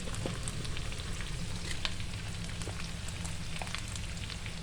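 Spice paste of onion, garlic, ginger, lemongrass and pounded bird's eye chili frying in oil in a pan: a steady sizzle with scattered sharp crackles and pops, over a steady low hum.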